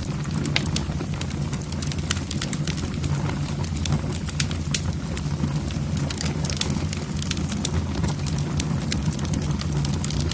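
Wood logs burning in a fireplace: frequent sharp, irregular crackles and pops over a steady low rumble of the flames.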